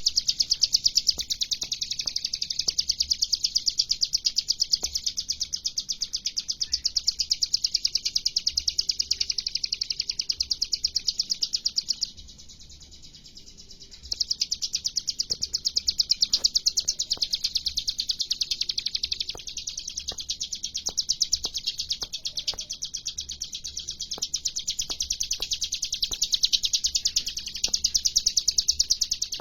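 Ciblek gunung (a prinia) singing vigorously in fast rapid-fire trills of high, evenly repeated notes. The song breaks off for about two seconds near the middle, then resumes.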